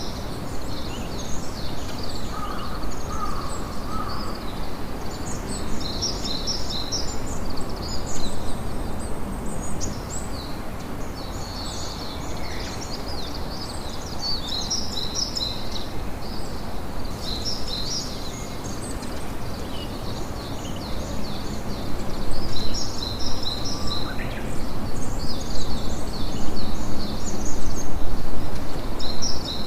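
Outdoor nature ambience: a continuous chorus of short, high-pitched chirping calls from birds over a steady background hiss, with a few louder moments in the last quarter.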